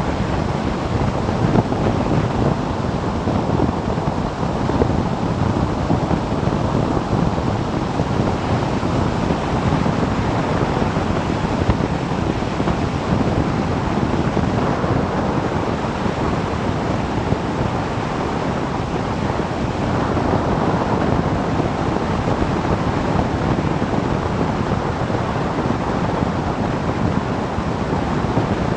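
Steady wind rush over the microphone of a moving motorcycle, with the motorcycle's running noise underneath.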